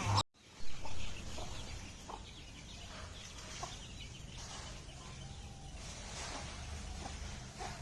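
Aseel hens clucking softly in short, scattered calls, with a brief louder noise about a second in.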